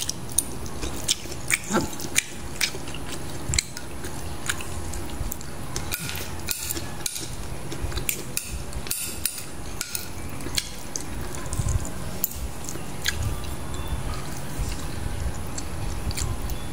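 Close-up eating sounds: wet chewing and lip smacks as rice and fish are eaten by hand, with many short clicks and a few light taps from the plate.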